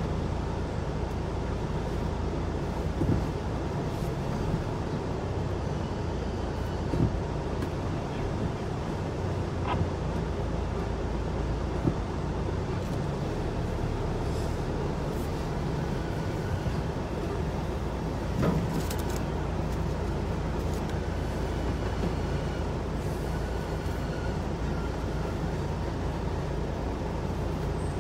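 Steady low engine and road rumble heard from inside a car's cabin while creeping along in a queue of traffic, with a few brief clicks and knocks scattered through it.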